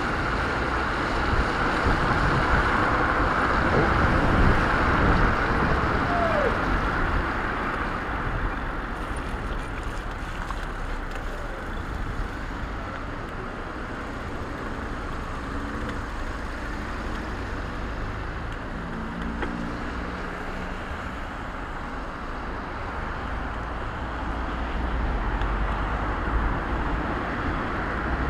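Steady road noise: traffic on a wet road and wind on an action camera's microphone, louder in the first few seconds and again near the end.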